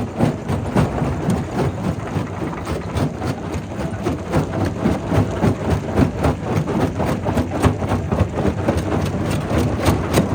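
Primary rock crusher running: a steady low rumble studded with many irregular knocks and cracks of stone being broken.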